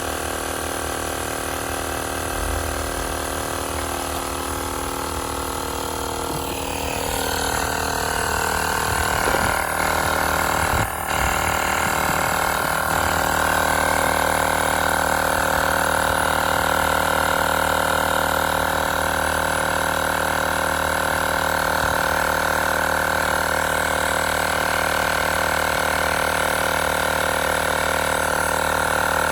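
Tower Top portable tire inflator's small piston compressor running continuously, pumping a truck tire up past about 31 psi. Its note changes and grows a little louder about seven seconds in, with a brief hitch near eleven seconds, then it runs steadily.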